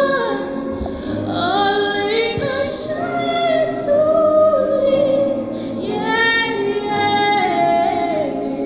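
Community choir singing, women's voices to the fore, with held notes that slide from one pitch to the next.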